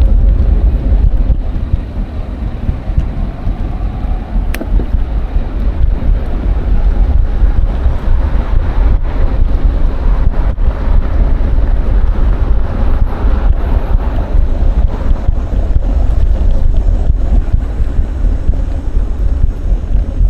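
Wind buffeting the microphone of a moving action camera on a bicycle ride: a loud, steady low rumble with scattered small clicks.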